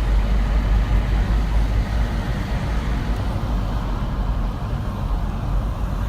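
Steady road and engine noise inside a moving car's cabin, mostly a deep rumble.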